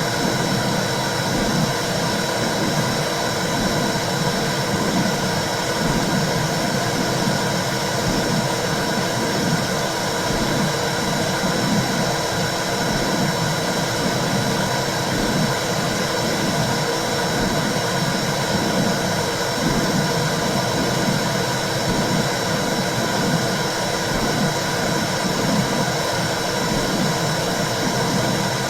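Womb sound for calming a baby: a steady, low whooshing rush that surges and eases over and over, like blood flow heard from inside the uterus.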